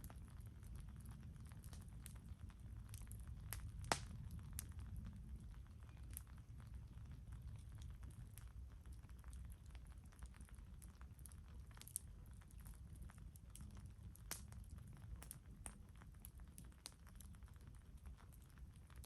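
Campfire burning, with faint wood crackling: irregular sharp pops and ticks over a steady low rumble, one sharper pop about four seconds in.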